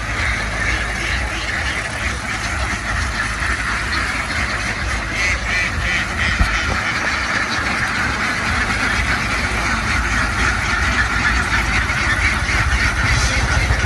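A large flock of domestic ducks quacking all at once in a dense, continuous din, with a steady low rumble underneath.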